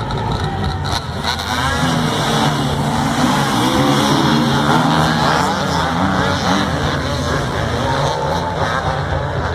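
Motorcycle engine revving hard under load, its pitch rising and wavering as the throttle is worked, loudest in the middle of the climb.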